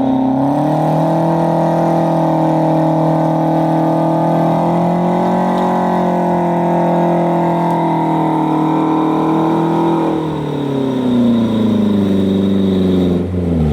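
Off-road competition 4x4's engine held at high revs, its pitch nearly steady for about ten seconds. The revs then drop off near the end.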